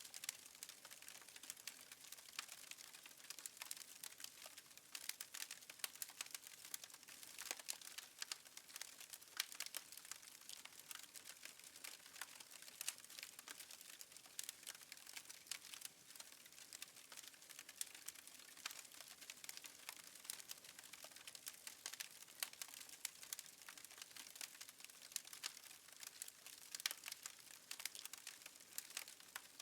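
Wood fire in a fireplace crackling faintly, with many small irregular pops and snaps over a soft hiss.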